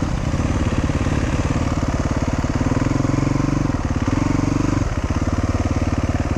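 Dual-sport motorcycle engine running steadily under way with a fast, even firing pulse. The throttle opens and eases off twice, about three and four seconds in.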